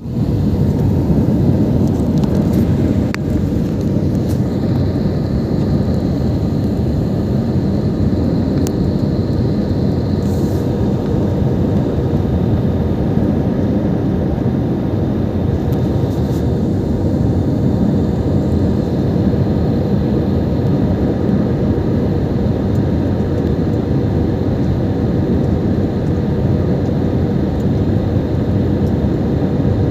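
Airbus A320 airliner's engine and airflow noise, a steady low rushing sound on the approach to landing.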